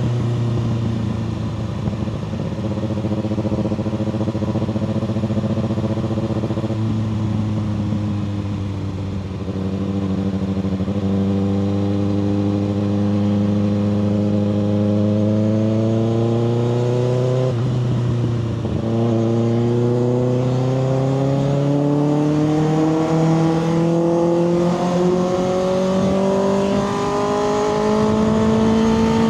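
2024 Kawasaki ZX6R's inline-four engine through a Two Brothers slip-on exhaust while riding. The revs ease off slowly at first, then climb steadily under throttle, with a short break about two-thirds through where the bike shifts gear before the pitch keeps rising.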